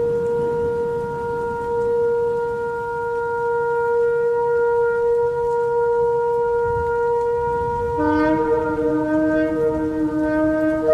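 Shofar (ram's horn) blowing one long, steady held note. About eight seconds in, a second, lower-pitched horn joins, and the two sound together.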